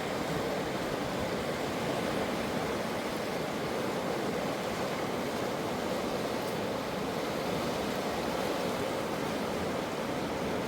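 River water rushing steadily: an even, unbroken wash of flowing-water noise.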